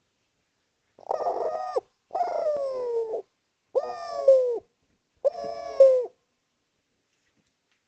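Male spotted dove (derkuku, tekukur) cooing: four coos, each about a second long, the second one sliding down in pitch. This is its loud calling song to companions or rival doves, the kind used as a lure.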